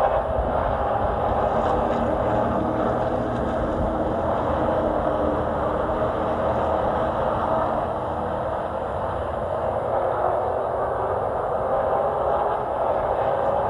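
Race truck engine running hard at racing speed, its note dipping and rising again through a corner.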